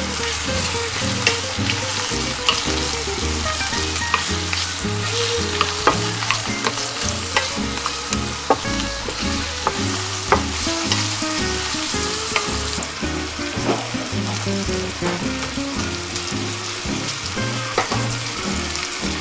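Head-on shrimp, king oyster mushroom and garlic sizzling in hot oil in a stainless-steel pan, stirred with a wooden spatula that now and then knocks sharply against the pan.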